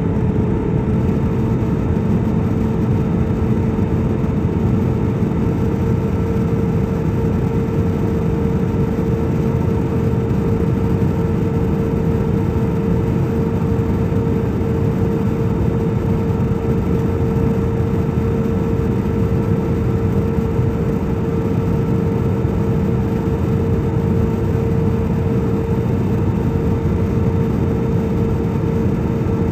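Steady, unchanging drone inside the cabin of a Cebu Pacific passenger airliner: engine and air noise heaviest in the low end, with a steady hum riding on it.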